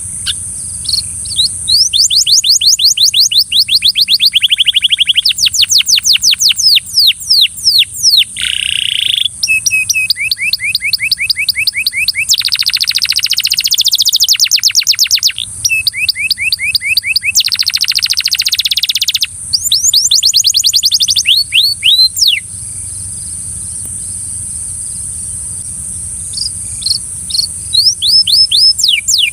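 Belgian canary singing in rapid trills: long runs of fast repeated sweeping notes that switch to a new pattern every second or two. It pauses for a few seconds about three quarters of the way through, then starts again near the end.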